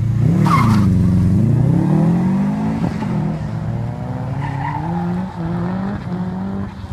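2004 Subaru Impreza WRX STi's turbocharged 2.5-litre flat-four launching hard from the start line with a brief tyre squeal, then revving up through the gears with a couple of shifts, fading as the car pulls away.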